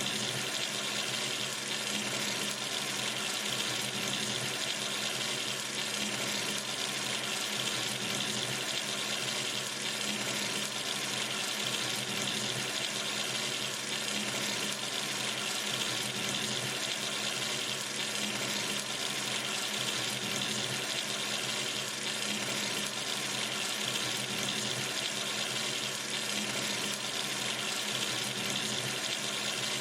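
Water running steadily from a sink tap, an even rushing splash with no change.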